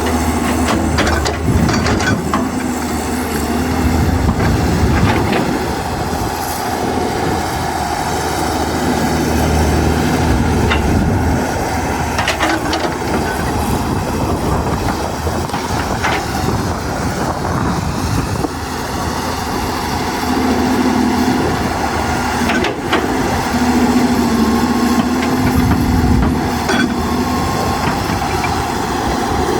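Excavator's diesel engine running steadily under work, with a hydraulic hum that rises for a few seconds past the middle and scattered sharp knocks and clanks.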